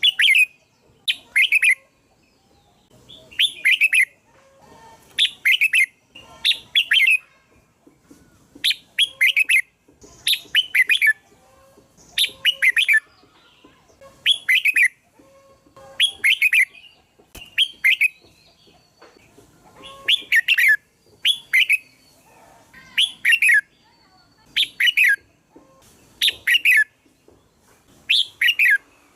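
Red-whiskered bulbul singing: short, loud phrases of two or three quick notes, repeated about every one and a half to two seconds.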